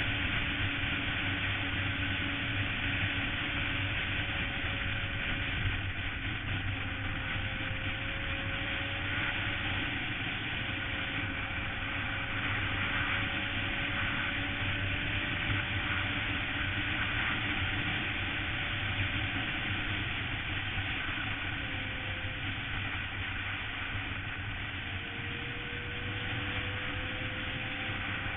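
Suzuki GSX-R sportbike riding at steady speed: a constant engine hum over rushing wind noise. Near the end the engine note drops and then rises slowly as the bike speeds up again.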